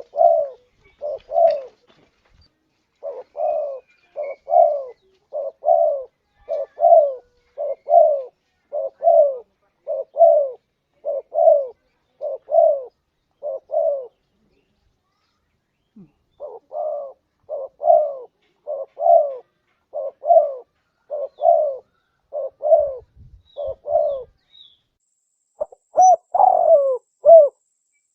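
Spotted dove (tekukur) cooing: long runs of short, evenly repeated low coos that pause twice, then a louder, more drawn-out phrase near the end.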